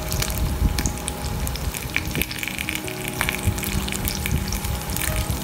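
Dried squid frying in shallow oil in a pan, sizzling with a steady scatter of small pops and crackles.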